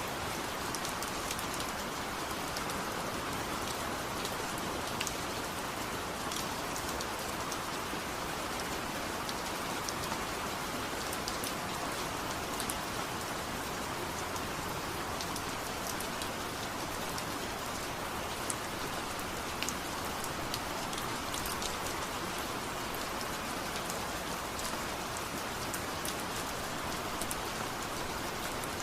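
Steady rain falling, with many small drops ticking sharply on a surface.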